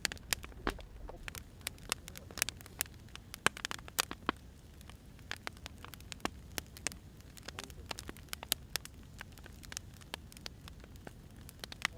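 Wood fire crackling, with irregular sharp pops and snaps over a low hiss.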